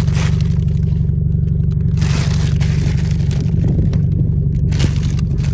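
Steady low drone of a car engine idling, with rustling and scraping as objects are handled close to the microphone.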